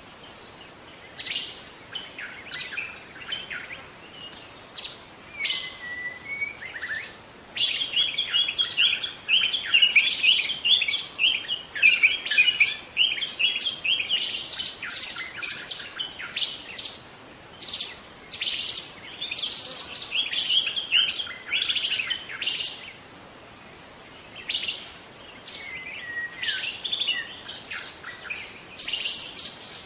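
Wild white-rumped shama singing: rapid, varied phrases of chirps and whistles with a few short gliding notes, delivered in bursts with brief pauses between them.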